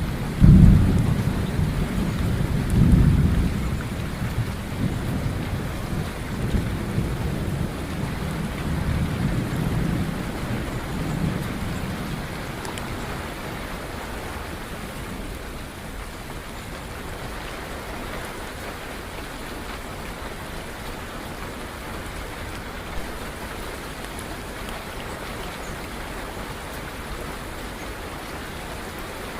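Steady rain with a peal of thunder: a loud clap about half a second in and another swell about three seconds in, rumbling away over roughly ten seconds until only the rain's steady hiss remains.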